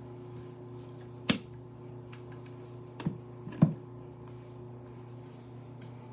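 Three short, sharp knocks, one about a second in and two close together around three and a half seconds in, over a steady low hum.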